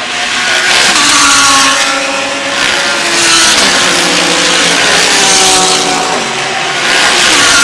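GT3 race cars going past one after another at high revs, each engine dropping in pitch as it passes, with about three loud swells as the cars go by.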